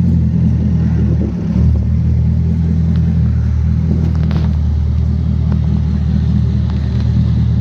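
Car engine idling with a loud, steady low exhaust rumble that dips briefly about one and a half seconds in.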